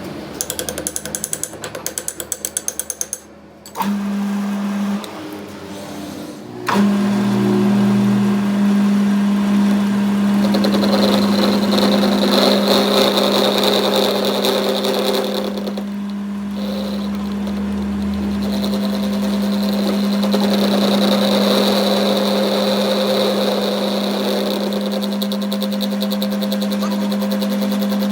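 A workshop machine's motor switching on and running with a steady hum, cutting out briefly once before running on steadily. Rapid, even clicking comes before it starts.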